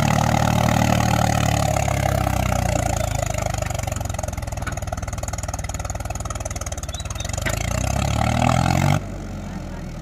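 Mahindra tractor's diesel engine running, its pitch easing down over the first few seconds and then revving back up. The sound drops sharply about nine seconds in.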